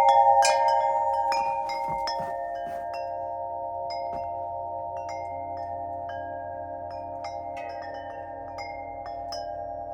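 Wind chime ringing: a cluster of strikes right at the start sets several tones going, which hold and slowly fade while occasional lighter strikes add to them.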